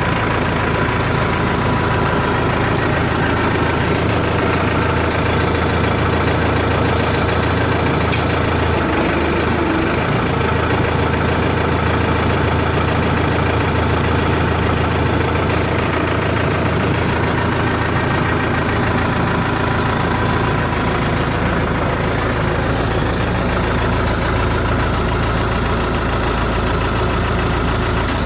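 New Holland T4050 tractor's diesel engine idling steadily.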